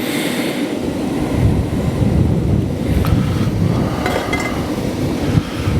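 Wind buffeting the microphone, an irregular low rumble that swells about a second in, over the hiss of the forge fan's air blowing up through the tuyere.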